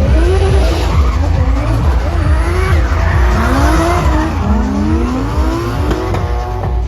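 Drift car engine revving hard, its pitch climbing and dropping several times, with tyre squeal as the car slides, over a steady thumping music beat.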